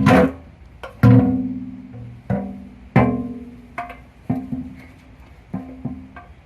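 Low plucked string notes played one at a time, about one a second, each ringing out and fading: a slow pizzicato bass line.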